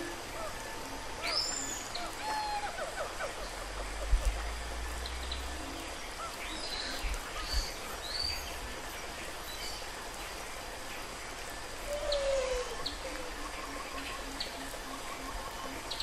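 Assorted bird chirps and whistles, scattered and unhurried, over a steady background hiss. A falling whistle comes about twelve seconds in, followed by a run of soft repeated notes. A few low thumps sound around four and seven seconds in.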